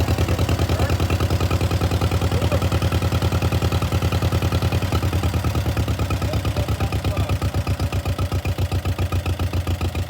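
1948 John Deere M tractor's two-cylinder engine idling with a steady, even beat, the beat becoming more pronounced about halfway through.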